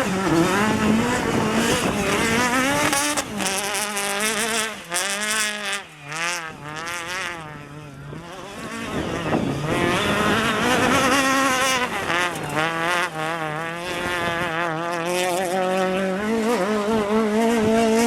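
Rally car engine revving hard through the gears, its pitch repeatedly climbing and dropping at each shift, with a quieter spell around the middle before the engine note comes back loud and steady near the end.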